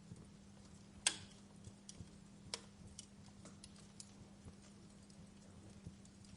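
Wood fire crackling: faint, irregular sharp pops, the loudest about a second in and another about two and a half seconds in, over a faint steady low hum.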